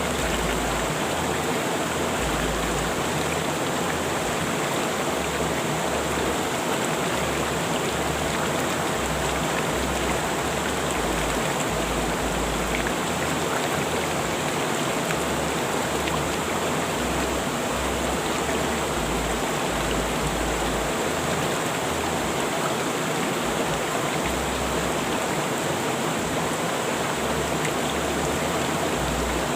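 River water rushing steadily over rocks, an even unbroken wash of noise.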